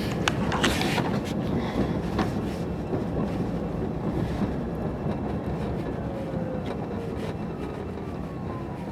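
Steady road and tyre rumble inside the cabin of a Rivian R1T electric pickup being driven, with a few sharp knocks in the first couple of seconds, from the loose cooler sliding in the bare truck bed. A faint falling whine comes in about six seconds in.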